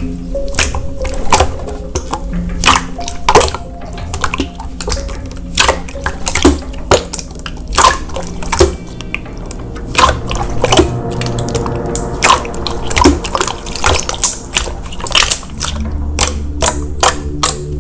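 Slime being squeezed and poked by hand, with quick wet clicks and pops several times a second, over soft background music.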